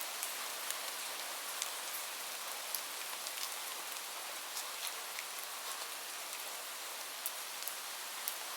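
Steady hiss of gentle rain, with scattered sharp ticks through it.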